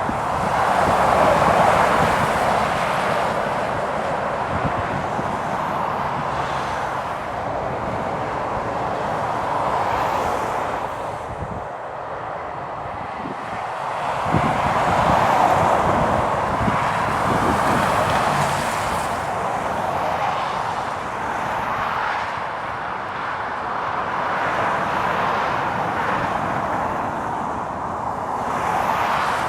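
Heavy trucks passing one after another on a rain-soaked road, their tyres hissing on the wet surface under the engine noise. The sound swells as each goes by, loudest about a second in and again about fifteen seconds in, with wind in the background.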